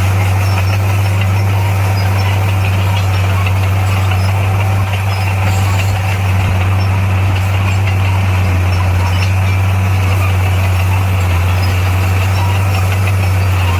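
Heavy diesel engine of earthmoving equipment running steadily, a loud, even low drone with a slight dip about five seconds in.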